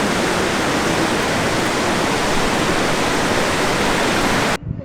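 Steady rushing of fast-flowing mountain water, a stream or small waterfall, which cuts off abruptly near the end.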